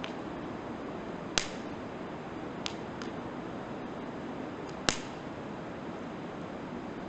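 Wood fire burning, with firewood popping in sharp cracks, two loud ones and a couple of fainter ones, over a steady rushing hiss.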